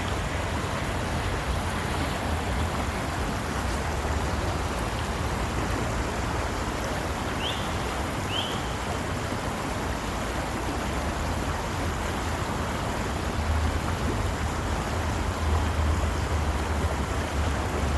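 Steady rushing noise like running water, with a low rumble underneath. Two short high chirps come about halfway through.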